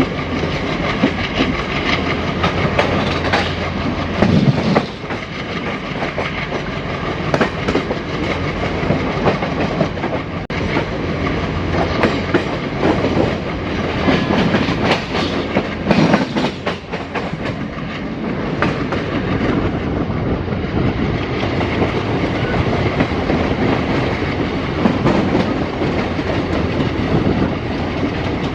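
Twin WDG-3A ALCo diesel locomotives chugging under power, heard from the first coach behind them. Over it the coach's wheels clatter over rail joints in a steady clickety-clack.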